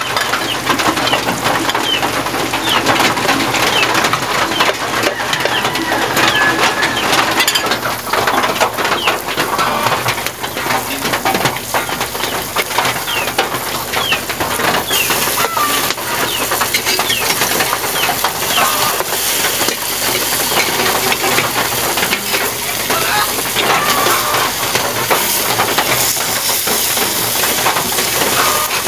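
Mushroom fritters frying in shallow oil in a wok: a steady sizzle full of small crackles and pops.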